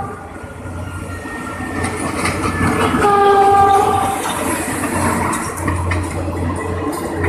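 GE U14C diesel-electric locomotive sounding its horn in one blast about three seconds in, a warning at the level crossing, as it passes close by with its diesel engine running. The hauled ex-JR 203 series cars follow, their wheels clicking over the rail joints.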